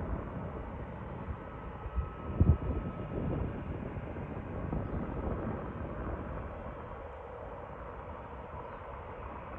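Airbus A320neo (A320-271N) with Pratt & Whitney geared turbofan engines taxiing at a distance: a steady low jet rumble with a faint thin whine. A brief low buffeting about two and a half seconds in is the loudest moment.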